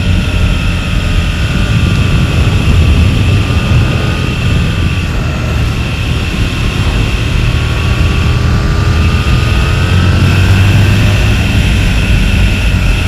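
Aprilia RSV V-twin motorcycle engine running while riding, its note drifting slightly up and down, under a heavy steady rumble of wind noise.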